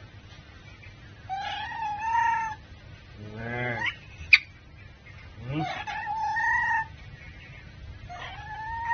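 A pet monkey calling: four drawn-out cries, each rising and then holding steady. A single sharp click comes between the second and third.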